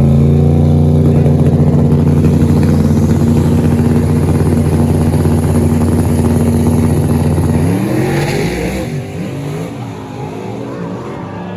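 A race truck's engine is held at steady high revs for about eight seconds. Its pitch then climbs sharply and the sound falls away as the truck pulls off.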